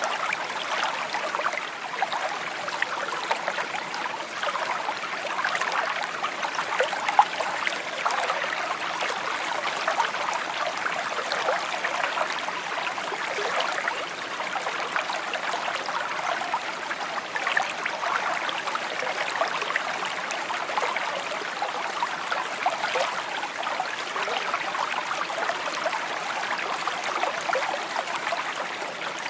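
Small stream babbling and trickling over stones, a steady stream of many small splashes.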